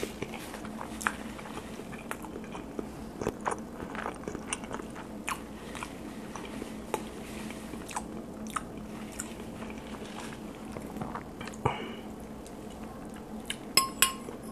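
Close-miked chewing of a mouthful of food, with wet mouth clicks and smacks scattered irregularly throughout. Near the end, a metal fork clinks a few times against a glass bowl.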